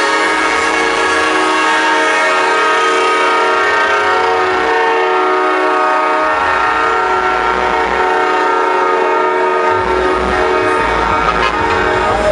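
A train-style air horn chord, several notes sounded together and held loud and steady for about ten seconds, thinning out near the end. Deep bass from the sound system comes and goes underneath.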